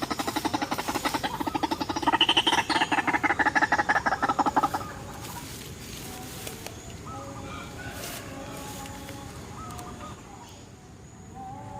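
White-breasted waterhen call: a loud, fast run of pulsed notes that cuts off about five seconds in. Fainter scattered bird chirps follow.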